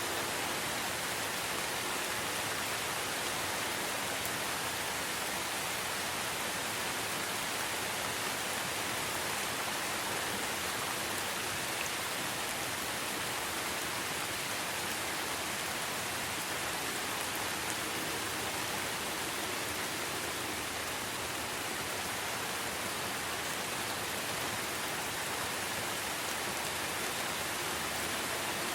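Steady, even rain falling in a forest.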